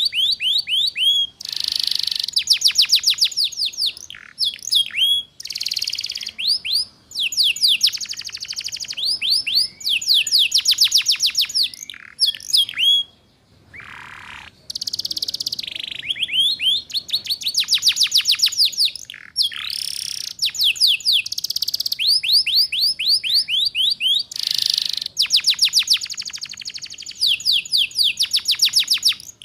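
Domestic canary singing a long, fast song of rapid trills, repeated chirps and sweeping whistled notes, with a short break about halfway through.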